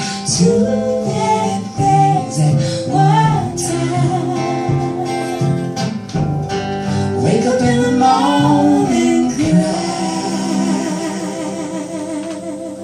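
Live folk band song ending: several voices sing together over guitar, and the music grows quieter toward the end.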